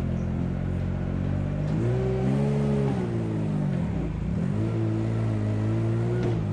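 A vehicle engine running steadily. It revs up about two seconds in, drops back briefly around four seconds, then holds a steady speed.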